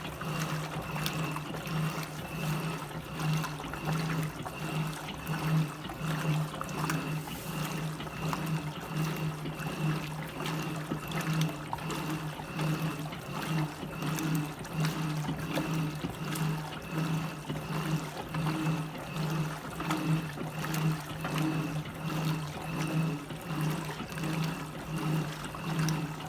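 Electrolux LT15F washing machine running with water in it: a steady low motor hum that pulses evenly, over the sound of trickling, sloshing water.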